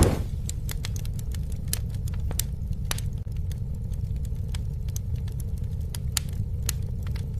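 Campfire burning: a steady low rumble of flames with frequent sharp crackles and pops, and a brief whooshing swell right at the start.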